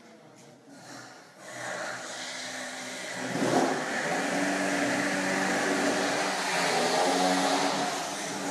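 A vehicle engine running, starting quiet, then coming up about two seconds in and holding a steady note, with a brief surge about three and a half seconds in.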